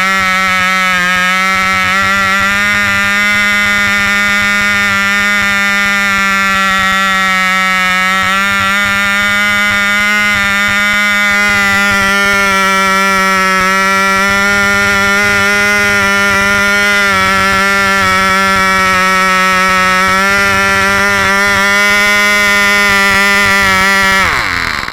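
Cox .049 two-stroke glow engine running steadily at high speed with a custom muffler fitted, a loud high-pitched buzz; near the end its pitch drops and it cuts out.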